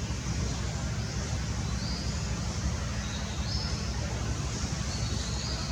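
Steady outdoor background noise with a low rumble and a few faint, short high chirps.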